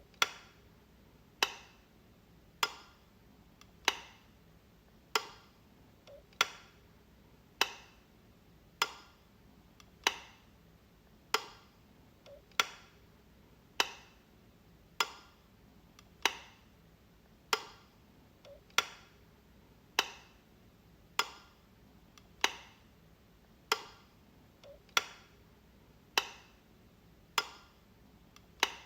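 Light switch flicked over and over, one sharp click about every one and a quarter seconds.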